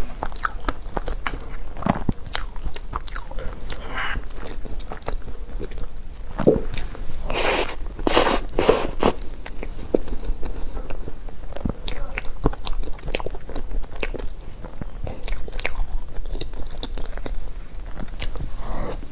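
Close-miked biting and chewing of a crispy-shelled half-baked cheese pastry: a steady run of small crackles and clicks from the crisp shell, with the loudest crunches about halfway through.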